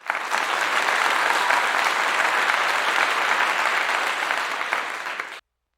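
Applause: many hands clapping steadily, cut off abruptly near the end.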